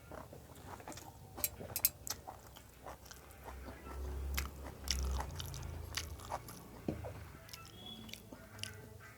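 Close eating sounds: biting and chewing, with scattered sharp clicks and smacks from the mouth.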